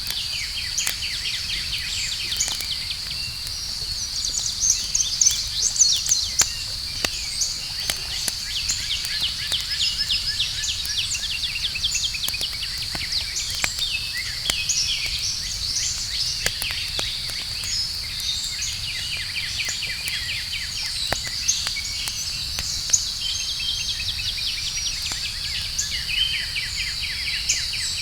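Campfire ambience: a steady high insect trill and frequent bird chirps and trills over a fire crackling in scattered sharp pops.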